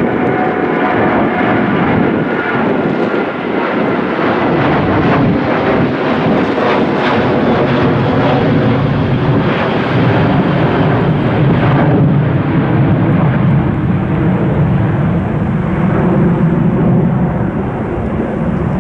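Jet airliner taking off, engines at takeoff power through the roll and climb-out, a loud steady rush with a deeper rumble building over the second half.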